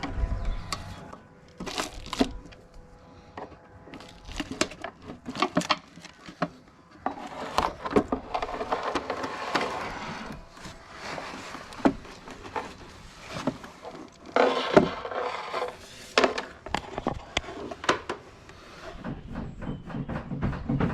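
Hand tools and fittings being worked while disconnecting a boat's cockpit engine panel: irregular clicks, knocks and rattles with stretches of scraping, the sharpest knock a little after the middle.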